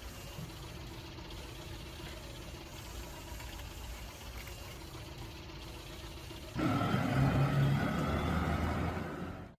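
A steady low engine-like rumble. About six and a half seconds in, a much louder sound with steady pitched tones joins it, and everything cuts off abruptly at the end.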